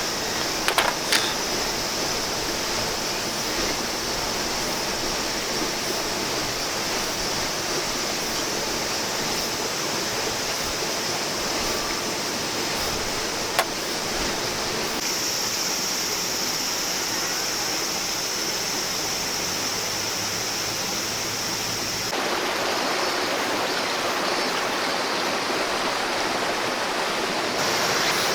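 A clear river flowing in a steady rush of water. Its tone shifts abruptly twice, about halfway through and again later, and there is one brief click before the first shift.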